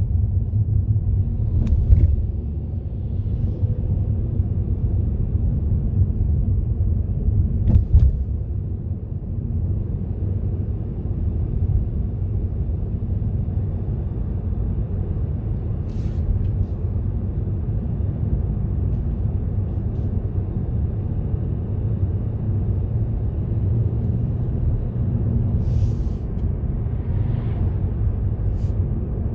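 Steady low rumble of a car driving, the engine and road noise heard from the moving car, with two short knocks about two and eight seconds in.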